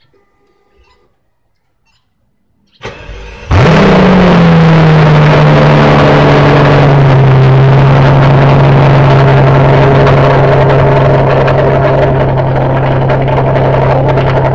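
Mercedes-Benz W220 S600's V12 engine started: a brief crank about three seconds in, catching with a short flare in revs, then settling to a steady idle heard through the exhaust.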